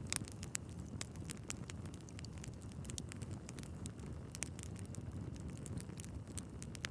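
Wood fire burning in a fireplace: a low steady rumble of flames with frequent sharp crackles and pops from the logs, a few of them louder, just after the start and again a little past the middle.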